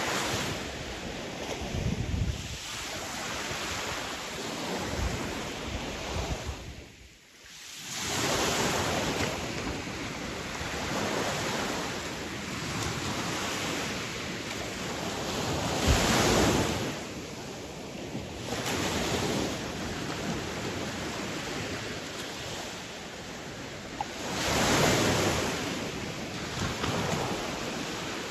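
Sea waves washing onto a shore: a steady rush of surf that swells into louder breaking surges every several seconds, with a brief sharp drop-out about seven seconds in.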